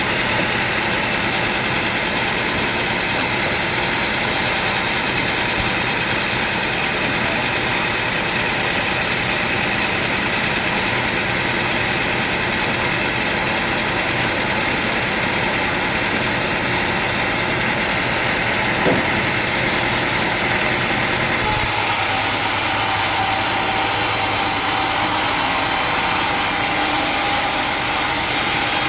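Sawmill machinery running steadily, a continuous mechanical hum with a high whine. About 21 seconds in the sound changes abruptly to a brighter, hissier running sound.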